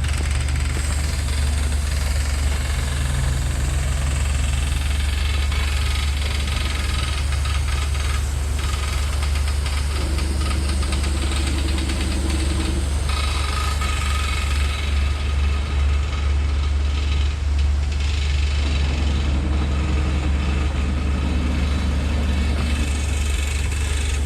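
Motorcycle engine running steadily, a strong low hum with a constant hiss over it.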